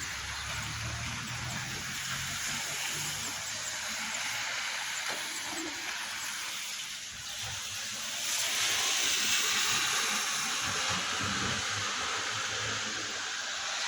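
Wet-street traffic in drizzle: a steady hiss with a low engine hum in the first few seconds, then a vehicle's tyres hissing on the wet road, louder from about eight seconds in.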